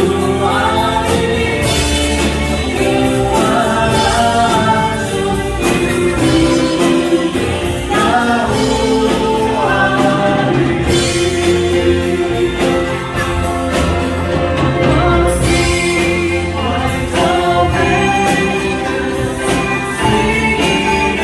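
A group of voices singing a gospel-style Christian song together, with instrumental accompaniment and a steady percussive beat.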